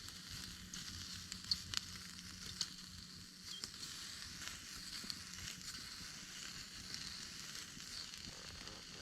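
Wood campfire burning with a steady crackle and hiss, and scattered sharp pops, the loudest two about one and a half seconds in.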